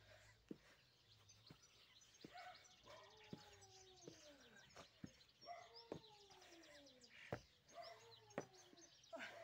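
Faint birdsong, small birds chirping on and off, with soft sharp knocks about once a second and a few long tones that slide down in pitch.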